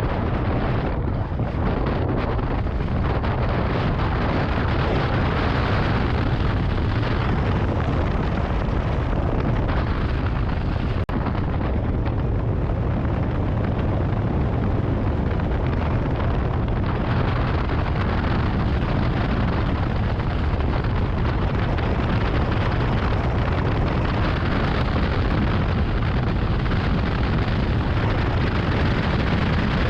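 Strong wind buffeting the microphone: a loud, continuous deep rumble with rushing noise over it, steady throughout.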